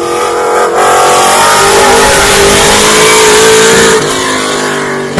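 Mark II Ford Escort rally car's engine revving hard as the car drives past, very loud. Its pitch climbs a little and then holds, and the sound falls away sharply about four seconds in.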